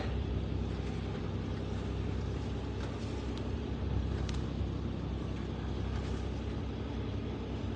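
Boat engine running steadily under way, a constant low hum with the rush of water and air over it.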